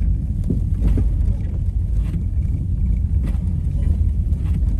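Dodge Charger V6 driving on a snow-covered road: a steady low rumble of engine and tyre noise.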